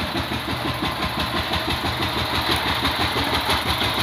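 Power tiller's single-cylinder diesel engine running steadily with an even, rapid pulsing.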